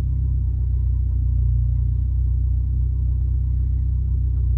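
Mitsubishi Lancer Evolution X MR's turbocharged 2.0-litre four-cylinder engine idling, a steady low rumble heard from inside the cabin.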